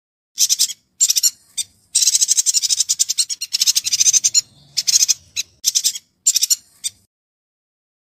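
Yuhina singing: rapid, rattling high trills in bursts of varying length, the longest about a second and a half, with short gaps between them; the song cuts off suddenly about seven seconds in.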